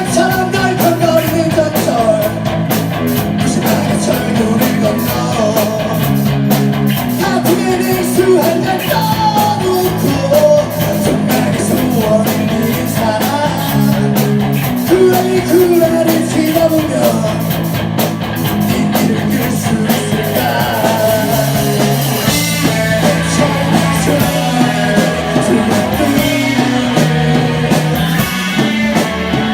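Rock band playing live: singing over electric guitars, bass guitar and drums.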